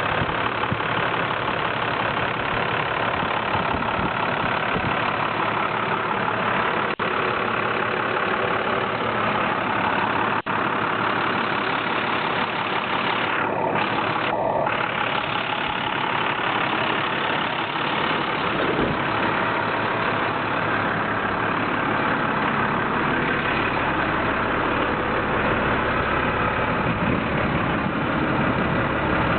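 Engine of a 2005 International fuel truck idling steadily, with the sound cutting out for an instant twice.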